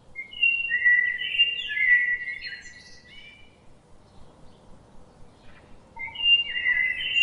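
A songbird singing: a phrase of clear whistled notes with gliding pitches over the first three seconds or so, a lull, then another phrase starting about six seconds in.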